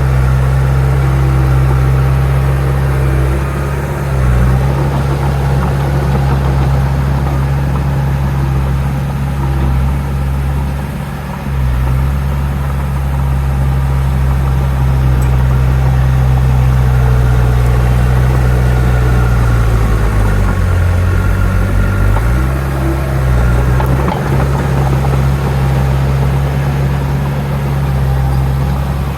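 Heavy diesel engine of a bulldozer running steadily, its pitch dipping briefly a few times, with a longer dip about two-thirds of the way through.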